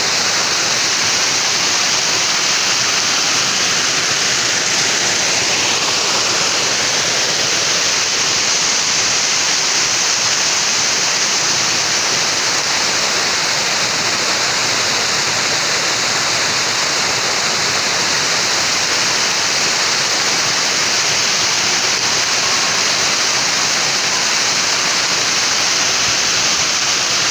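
Waterfall on a creek, water falling and rushing loudly and steadily.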